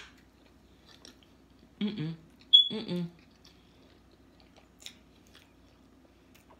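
Close-up chewing of a mouthful of food, mostly faint wet clicks and smacks, with a sharp click as a bite is taken at the start. Two short mumbled voice sounds come through the full mouth about two and three seconds in.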